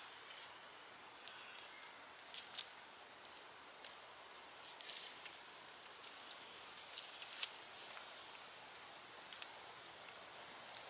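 Faint scattered rustles, scratches and small clicks of gloved hands digging through loose soil in a raised bed while hunting for sweet potatoes.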